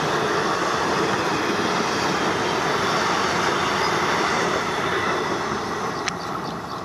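An ICF passenger train's coaches rolling past with a steady rumble of wheels on rail. The noise eases off near the end, and there is one sharp click about six seconds in.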